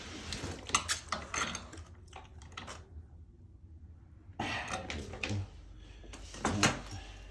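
Small metal hardware (toilet bolts, washers and nuts) clinking and clattering as it is handled: a run of sharp clicks, a short pause, a scraping shuffle, then another clatter near the end.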